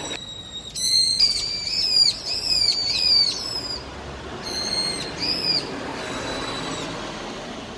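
Adult bird giving repeated high, sharp alarm calls, a quick run of about six short arched notes and then a few more spaced out, while its fledgling lies on the ground; the parent cries out whenever the chick is handled.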